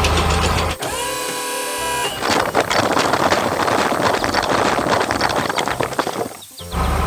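Sound effects of an animated construction machine. A heavy engine idles, then stops and gives way to a steady mechanical whine for about a second. A few seconds of dense crackling clatter follow, and the idling engine comes back near the end.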